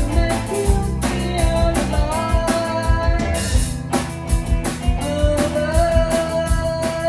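Live rock band playing: drum kit keeping a steady beat under electric guitar and bass, with a sustained lead line that slides between held notes.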